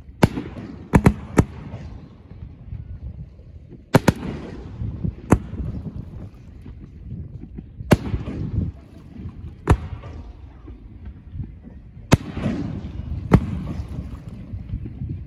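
Aerial firework shells bursting overhead: about ten sharp bangs a few seconds apart, some in quick pairs, each followed by a rumbling echo.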